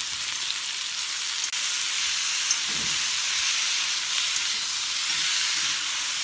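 Onions, cashews and tomato chunks frying in oil in a cast-iron kadai: a steady sizzle while a spoon stirs them, with a few faint light ticks.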